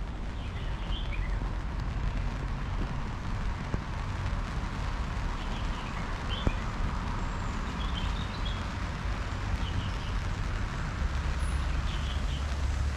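City street ambience: a steady low rumble of traffic under an even haze of noise, with short high chirps of small birds every couple of seconds and a sharp click about six and a half seconds in.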